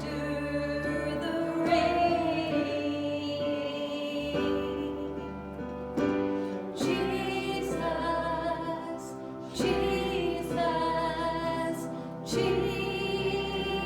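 A song sung in a service of worship, with instrumental accompaniment: slow phrases of long held notes with a bass line underneath.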